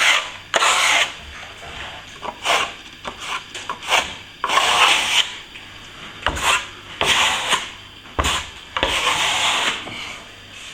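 Steel plastering trowel scraping over nearly set plaster in repeated, uneven strokes: the final polishing pass that brings the finish coat up smooth. A couple of light knocks fall around the middle.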